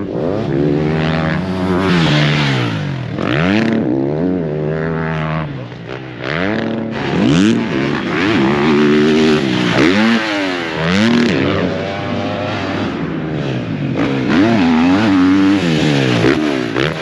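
Several motocross bikes on the track, their engines revving up and dropping off again and again as they pass, with more than one engine heard at once.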